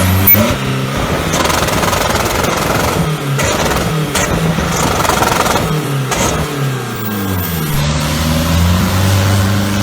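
Turbo-diesel engine of a longtail racing boat revving up and down several times, then holding steadier revs near the end.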